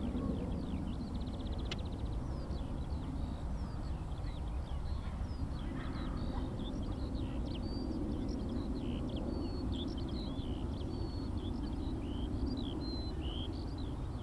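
Skylark song: a long, unbroken stream of quick chirps, warbles and short trills. Under it runs a steady low rumble.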